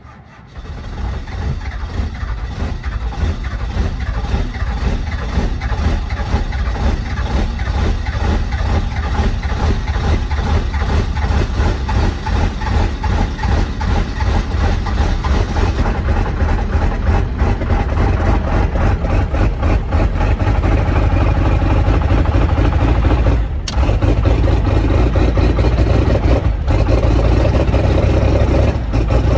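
12-valve Cummins inline-six diesel cold-starting in freezing weather with no grid heater: it fires up and runs roughly, the sound building over the first few seconds and then holding, with two brief dips late on.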